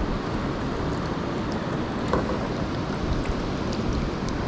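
Steady wind rumble buffeting the microphone, with a few faint clicks.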